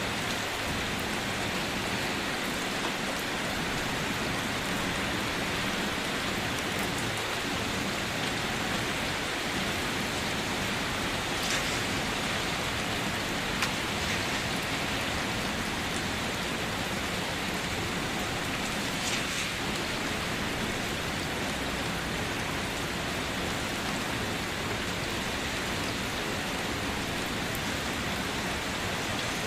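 Steady, even rainfall with individual drops pattering on surfaces, with no thunder; a few slightly louder drop hits stand out briefly.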